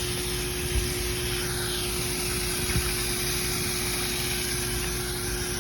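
Steady hiss of spraying or falling water, with a faint steady hum beneath it and a few soft thuds.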